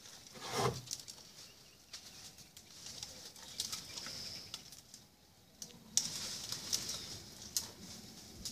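Faint bird calls, with scattered light clicks and knocks.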